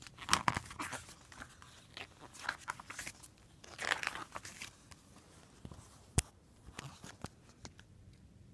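Paper catalog pages being turned and handled, rustling in several short bursts, with a single sharp tap about six seconds in.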